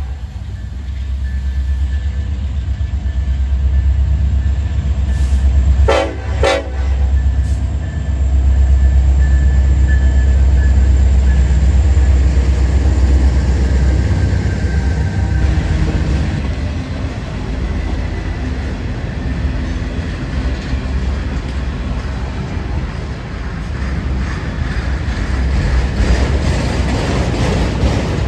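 Diesel freight train passing, its locomotive engines running with a steady low drone, with two short horn blasts about six seconds in.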